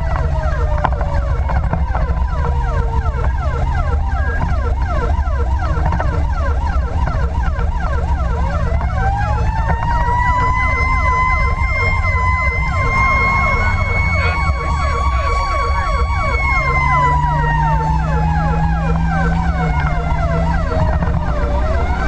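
Fire engine sirens on an emergency run: a slow wail that falls, winds back up about a third of the way in, holds, then slides down and starts rising again near the end, layered over a fast repeating yelp, with the truck's engine rumbling underneath.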